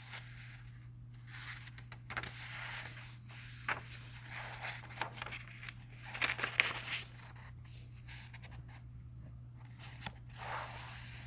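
Paper rustling, with soft scrapes and small clicks: the pages of a book being handled. A steady low hum runs underneath.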